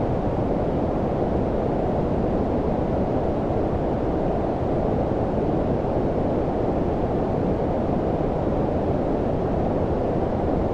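Steady low-pitched synthetic noise, brown-noise-like, with most of its energy in the lows and the highs rolled off; it does not change.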